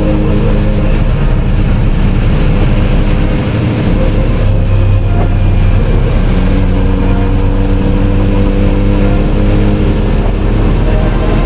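Kawasaki Z900RS inline-four engine running under way at a steady cruise, with its engine note changing for a couple of seconds about four seconds in.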